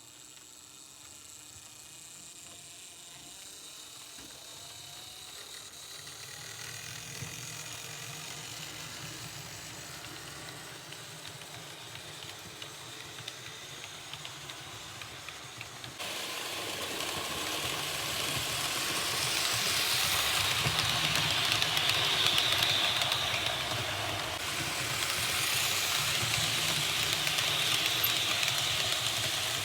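Märklin H0 model train running on the track: a motor hum with rolling rumble and small clicks, growing steadily louder as it approaches. About halfway through it jumps suddenly louder and swells twice more as it passes close.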